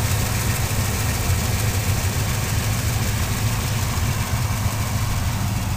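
A 1995 Pontiac Firebird Formula's LT1 5.7-litre V8, fitted with long-tube headers, idling steadily and warmed up, heard close up from the open engine bay.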